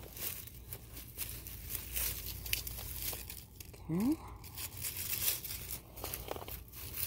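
Garlic bulbs being pulled from the soil of a raised bed: their roots tear and crackle loose in short, irregular bursts, with dry leaves crinkling. A brief rising tone sounds about four seconds in.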